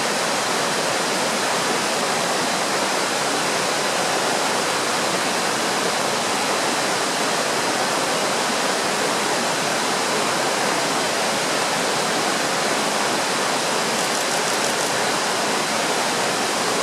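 Rushing river water: a steady, even roar with no breaks.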